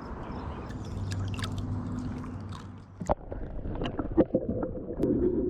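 Canoe on the water: a steady rush of water noise, then from about three seconds in a series of sharp knocks and clicks.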